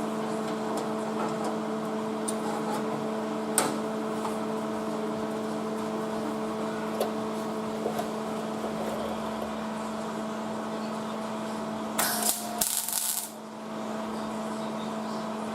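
Steady electrical hum. About twelve seconds in comes a brief burst of welding-arc crackle, a short tack weld on sheet-steel floor panel.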